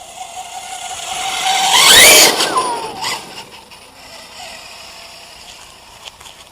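Brushless electric motor of a Redcat MT RC monster truck whining as the truck accelerates past. It is loudest about two seconds in, then its pitch drops and the sound fades as the truck moves away.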